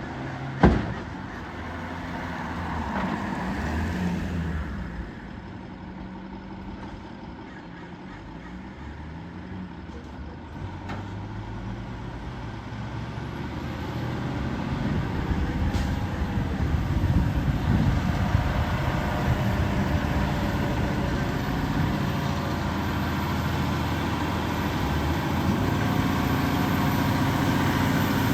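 Heil 7000 front-loader garbage truck working: its diesel engine runs under load with a sharp bang about a second in, the engine pitch rises briefly a few seconds in, and it gets louder through the second half as it revs.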